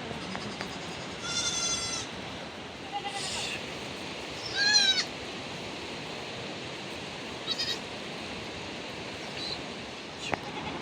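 Goats bleating, about five separate high, quavering calls, the loudest about halfway through. Two sharp clicks come near the end.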